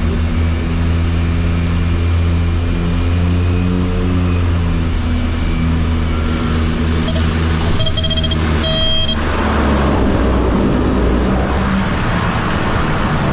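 Jet airliner engines heard from inside the passenger cabin: a steady low hum with a thin high whine that slowly rises and falls. About eight seconds in come two short tones, and from about nine seconds a louder rushing noise rises.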